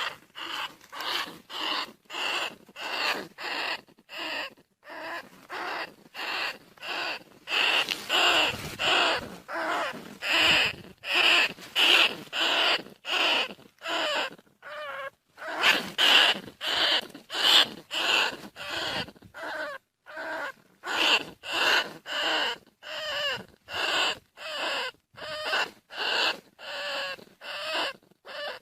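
Bandicoot rat calling: short, harsh squeaks repeated in an even series, about two a second, with brief silences between them.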